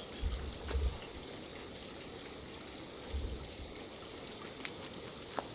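Steady high-pitched drone of insects over an even hiss, with short low thumps near the start and about three seconds in.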